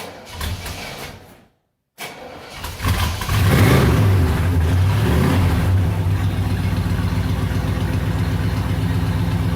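1969 Chevrolet Chevelle Malibu engine cold-starting after months parked: cranking, catching about three seconds in, rising and falling in speed for a couple of seconds, then settling into a steady idle with an even beat.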